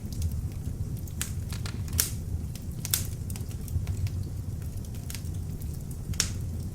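Beech-wood log fire burning in an open fireplace: a steady low rumble of the flames with irregular sharp crackles and pops, the loudest about two seconds in and again near the end.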